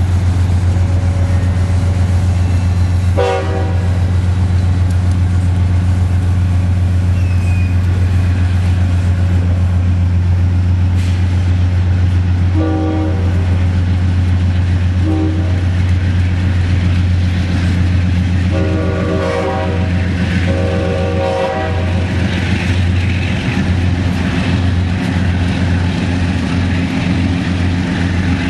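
Amtrak passenger train running with a steady, loud low drone. Its horn sounds several times: a short blast a few seconds in, two short blasts around the middle, then two longer blasts later on.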